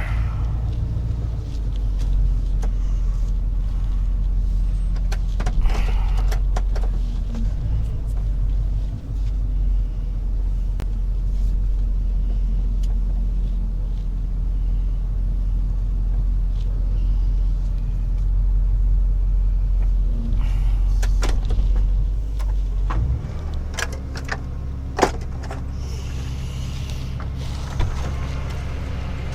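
Rollback tow truck heard from inside its cab, its engine running with a steady low rumble as it moves. About 23 seconds in the engine settles to a lower, steadier idle, with a few short clicks near the end.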